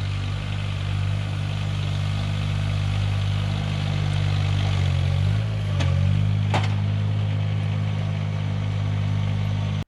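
An engine running steadily. Its pitch dips briefly about five seconds in, there are two sharp clicks soon after, and it cuts off abruptly at the end.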